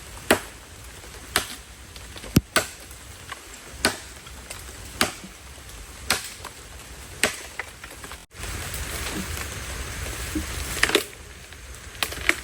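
Chopping: sharp single strokes about once a second. About eight seconds in there is a sudden cut to steady heavy rain, with a few more strokes near the end.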